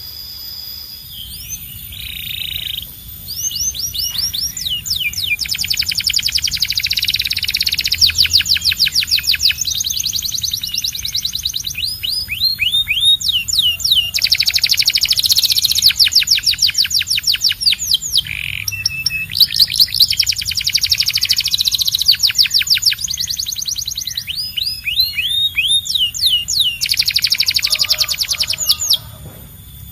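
Domestic canary singing long rolling trills of very fast repeated notes, broken by short runs of rising-and-falling whistled notes, phrase after phrase with brief pauses.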